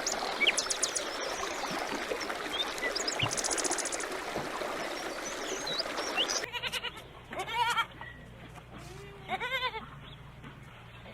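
A noisy stretch full of small chirps, then after a cut two bleats from a goat or sheep a couple of seconds apart, each a wavering call that rises and falls.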